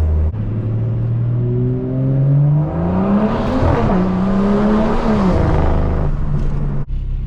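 Car engine pulling hard under acceleration, its note rising steadily for about three seconds, holding high, then dropping about five seconds in as the throttle eases off, settling into a lower steady drone.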